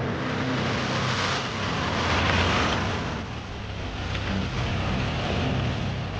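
Off-road vehicle's engine running under load over wet, muddy ground, with a louder rush of noise about two seconds in that eases off after about three seconds.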